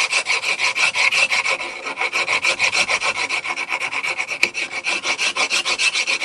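A 10-inch hand file rasping back and forth on natural stone tile, squaring off and shaping the opening of a switch plate. The strokes are quick and even, about five a second, with a short easing about two seconds in.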